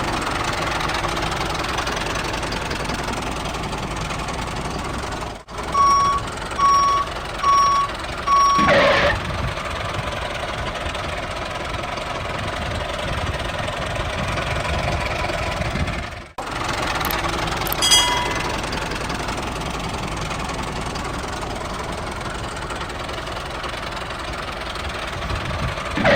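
Machinery running steadily, with four short beeps about a second apart, like a reversing alarm, about a quarter of the way in. The sound drops out briefly twice.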